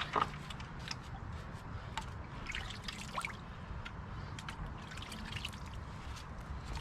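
Wet grout being worked by hand: scattered scrapes and light taps with a wet, trickling sound.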